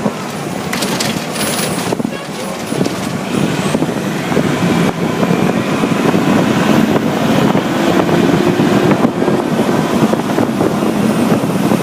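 Engine and road noise inside the cab of a Pierce Arrow XT tractor-drawn aerial ladder truck driving under way, steady and loud, with a few brief clicks or hisses in the first two seconds.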